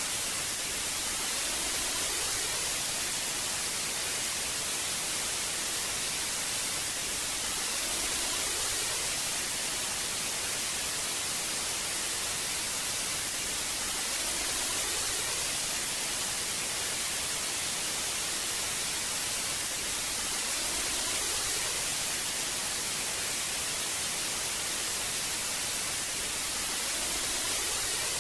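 Steady hiss of old analog TV static, strongest in the highs, with a faint swell coming back about every six or seven seconds.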